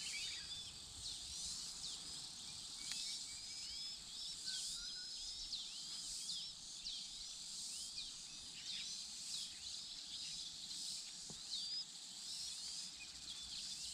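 Birds chirping: many short, high chirps, rapidly repeated and overlapping throughout, over a steady high hiss.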